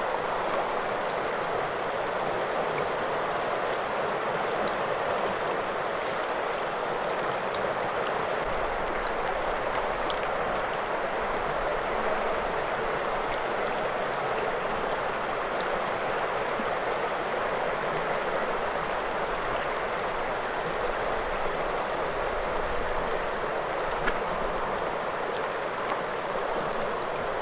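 Steady rush of flowing river water, an even hiss that holds at the same level throughout, with a few faint ticks.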